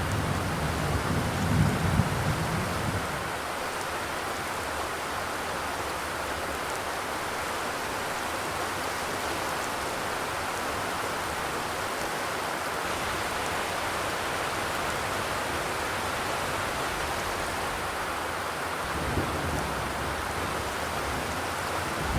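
Steady rain pattering on a zinc sheet-metal roof, with a low rumble swelling under it at the start and again near the end.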